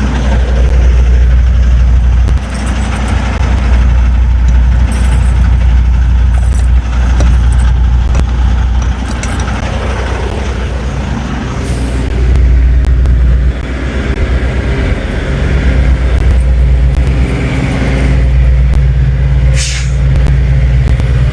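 Semi truck's diesel engine running with a deep steady hum, its loudness rising and falling a few times, and a brief sharp hiss of air near the end.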